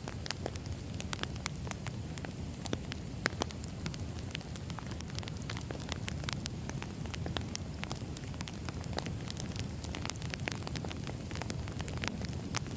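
Firewood burning in a fire, crackling and popping irregularly over a steady low rumble.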